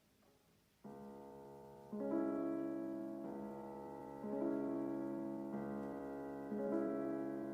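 Piano-style keyboard chords on a karaoke backing track: after a moment of near silence the chords come in about a second in and move to a new held chord every second or so, a slow, gentle introduction.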